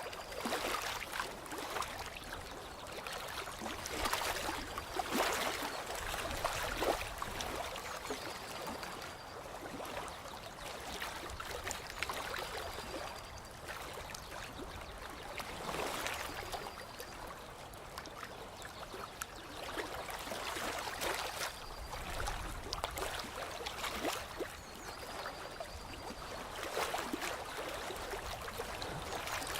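Water lapping and trickling, in uneven splashy swells every few seconds.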